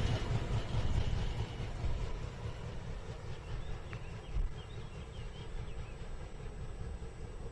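Freight train of tank wagons rolling away along the track, its rumble fading as it recedes, with wind rumbling on the microphone.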